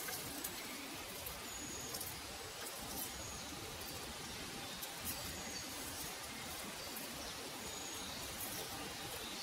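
Woodland ambience: a steady background hiss with a small bird giving a short, high, slightly falling chirp about every two seconds, four times in all.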